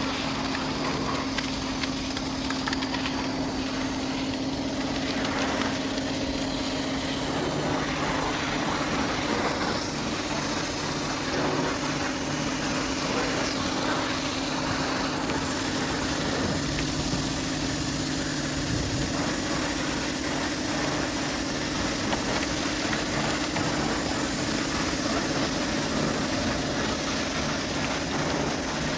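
High-pressure washer running steadily, its motor drone held on one steady pitch under a constant hiss of water spray.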